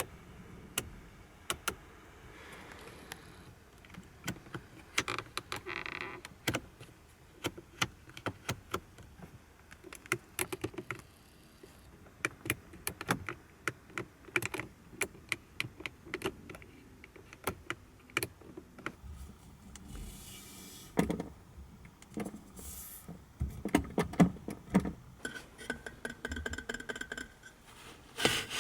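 Interior fittings of a 1984 Mercedes-Benz W126 500SEL being handled: a long, irregular run of sharp clicks and taps with some rattling and brief rubbing, busier near the end.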